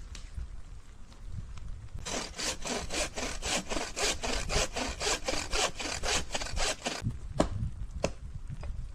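Hand saw cutting wood: a run of quick, even back-and-forth strokes, about four or five a second, starting about two seconds in and lasting about five seconds, then two sharp knocks.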